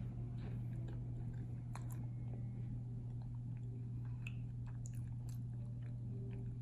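Close-up chewing of a macaron whose filling holds crunchy whole-wheat cookie pieces: scattered soft crackles and clicks of shell and cookie between the teeth, over a steady low hum.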